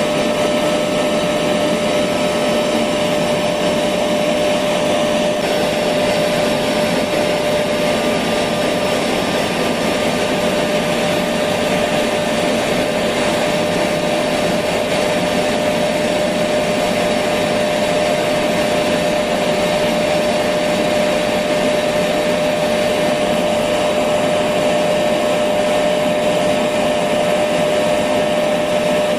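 Electric vacuum cleaner running steadily, a constant whoosh of air with a steady motor whine.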